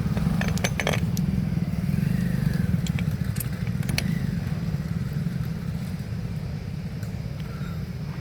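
Small motorcycle engine idling steadily, with a few light metallic clicks and clinks in the first second or so.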